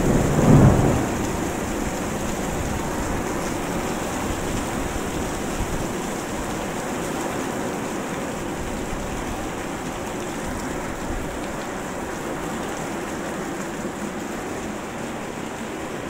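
Heavy downpour: the steady hiss of hard rain falling. A brief low rumble sounds in the first second, then the rain goes on evenly, easing a little toward the end.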